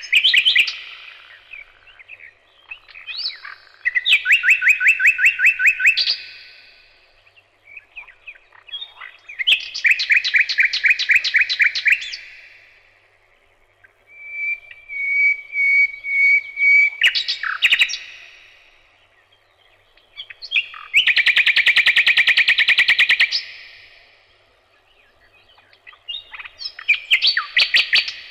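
A songbird singing loud phrases of rapid repeated notes and trills, each two to four seconds long, with short pauses between them. One phrase opens with a long steady whistle before breaking into fast notes.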